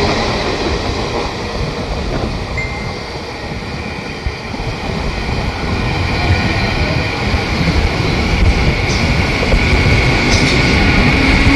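Passenger train's coaches running past on the rails, a continuous heavy rumble of wheels and bogies. It eases as the last coach moves away, then builds again toward the end, where a high steady tone joins in.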